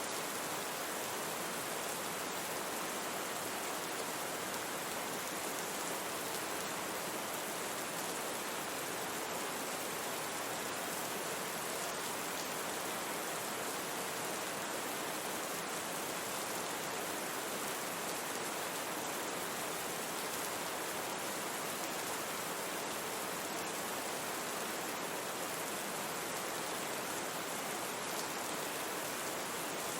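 Steady rain sound mixed with a constant noise bed, an even hiss with faint scattered drop ticks in the highs.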